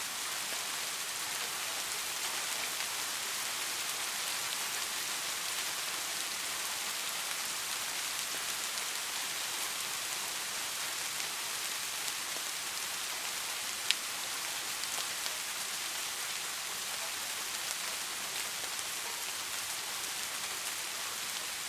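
Steady rain falling, an even hiss strongest in the high range, with a single sharp click about two-thirds of the way through.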